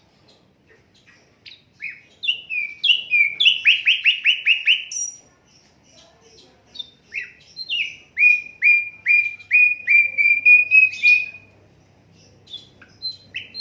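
Sikatan londo flycatcher singing: two phrases of repeated down-slurred whistled notes. The first, about two seconds in, ends in a fast run of about five notes a second; the second, starting about halfway through, is a slower string of about two notes a second ending in a rising note.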